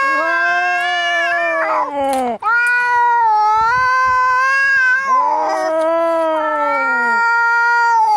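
Cats yowling at each other in a fight: long, drawn-out caterwauls that waver and bend in pitch, with a brief break about two and a half seconds in.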